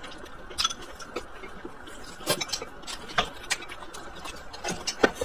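A person chewing a mouthful of food, with scattered wet smacks and clicks from the mouth, a few of them sharper.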